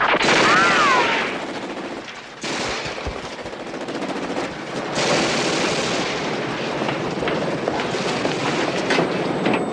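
Rapid automatic gunfire, a dense string of sharp shots. Over the first second a loud wavering tone rises and falls.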